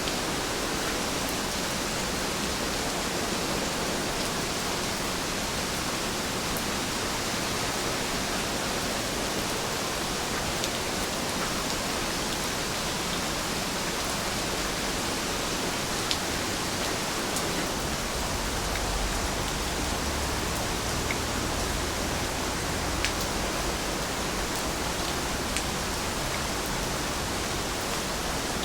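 Steady rain falling, an even hiss with a few sharp drips. A low rumble comes in underneath about two-thirds of the way through.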